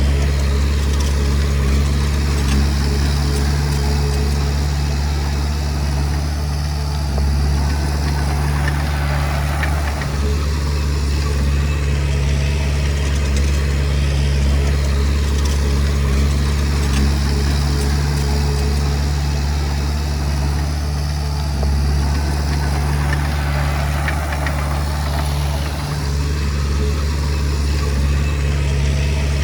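Diesel engine of a Komatsu D20P bulldozer running steadily as it works, with a rush of added mechanical noise that swells and fades twice.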